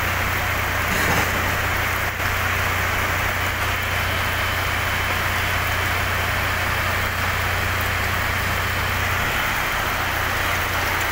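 Heavy rain pouring steadily onto pavement, with a low, steady hum of a vehicle engine idling underneath.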